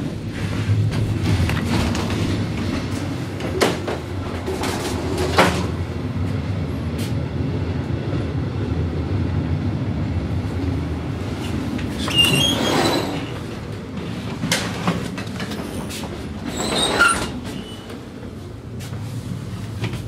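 Inside a moving passenger train carriage: a steady low rumble with scattered clicks and knocks. Two louder brief screeching, scraping noises come about 12 and 17 seconds in, and the rumble eases a little near the end.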